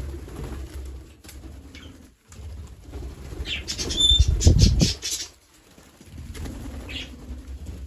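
Green parrots flapping their wings, with a loud flurry about halfway through that carries a couple of short, high chirps.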